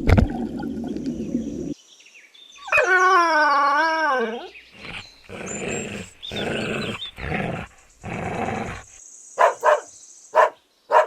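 Dog howling in one long wavering call, then a run of shorter repeated cries and a few sharp barks near the end.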